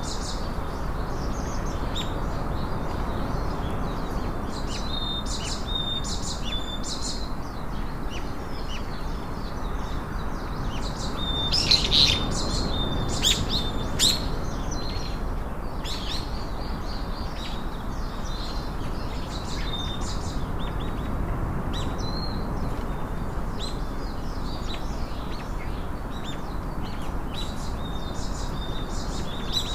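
Small birds chirping and singing in short, high, repeated calls over a steady background hiss, with a louder flurry of chirps about twelve seconds in.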